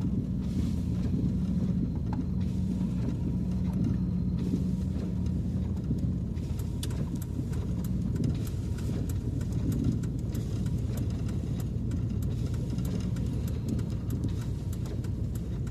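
Steady engine and road rumble heard from inside a truck's cab while driving, with a steady hum over the first several seconds and faint scattered ticks later on.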